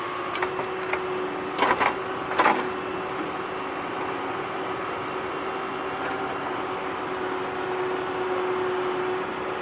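A small motor running with a steady whirring hum, with a few sharp plastic clicks and knocks in the first few seconds, the loudest about two seconds in.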